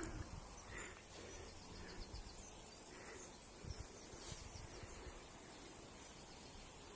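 Faint riverside ambience with scattered small bird chirps and short high notes over a steady thin high-pitched hum.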